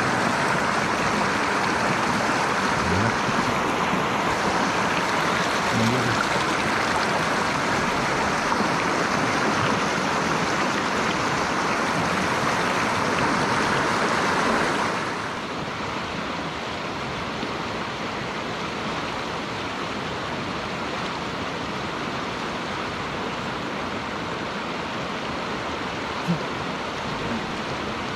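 Mountain stream water rushing steadily. About halfway through it drops abruptly to a quieter, duller rush.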